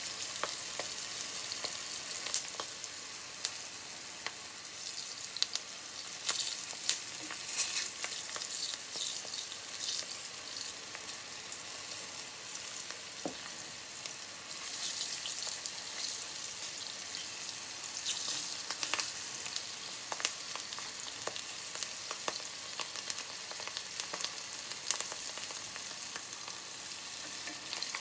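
Green peppers and other pieces frying in a black frying pan of brown sauce, a steady hiss, with scattered sharp clicks as wooden chopsticks turn the pieces against the pan.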